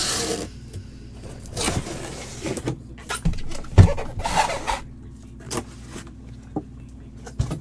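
Packaging being handled at close range: irregular rustling and scraping, with a few sharp knocks and one heavier thud about four seconds in.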